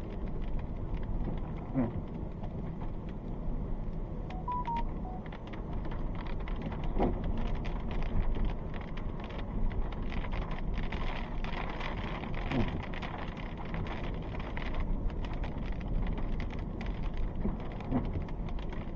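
Rain pattering on a car's roof and windshield, with a steady low rumble and a windshield wiper sweep about every five seconds.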